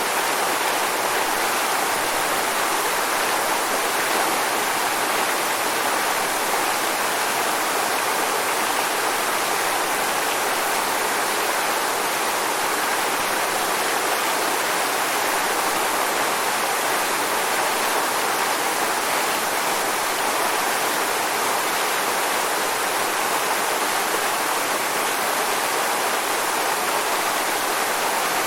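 Waterfall: steady rushing and splashing of falling water, unbroken and even throughout.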